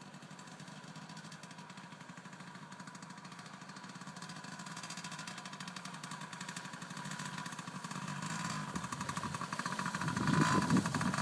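Dirt bike engine running, growing steadily louder as it approaches, loudest near the end.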